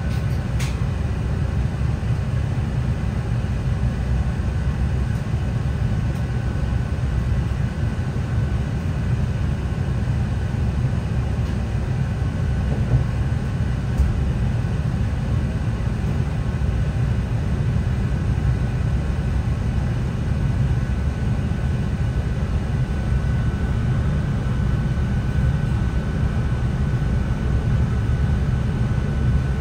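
Cabin noise aboard a NI Railways Class 3000 (CAF C3K) diesel multiple unit running: a steady low rumble, with a faint steady high whine that fades and returns.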